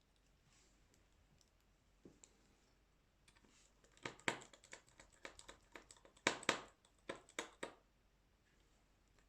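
A quick run of small, sharp clicks and taps from hands and tools working on a smartphone during a screen replacement. The clicks bunch together from about four to nearly eight seconds in, after a faint lead-in.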